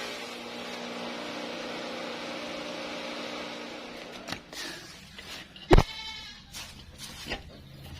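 A steady hum fades out about halfway through, then a few knocks follow and a goat gives one loud, short bleat.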